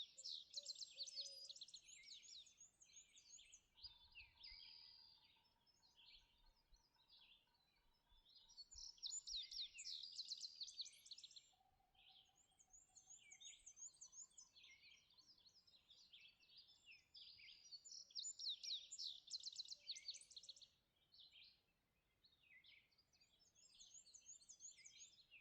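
Faint dawn chorus of several songbirds. High-pitched songs and trills overlap, and a loud burst of song comes back about every nine seconds, with a few soft, low, steady whistled notes in between.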